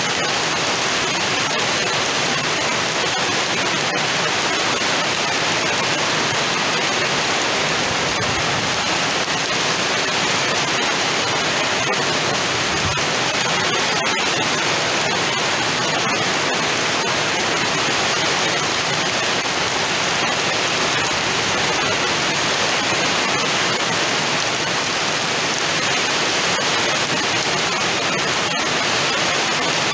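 Heavy rain falling steadily, with water pouring off the edge of a roof: a loud, even hiss with scattered faint drop ticks.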